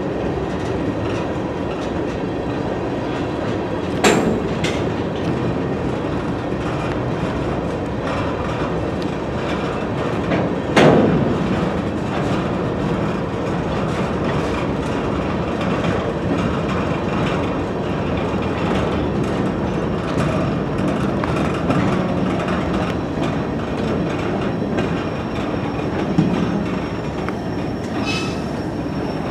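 Freight train of open-top hopper cars rolling past at close range: a steady rumble of steel wheels on the rails. Two sharp bangs come about four seconds in and about eleven seconds in, and a brief high wheel squeal starts near the end.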